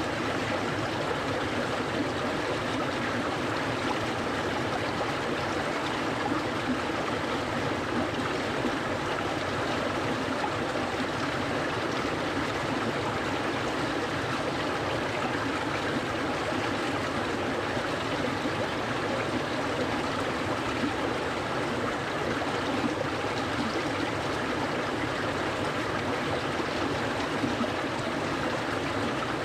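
Clear, cold mountain stream flowing steadily over rocks, a continuous rushing and trickling of water.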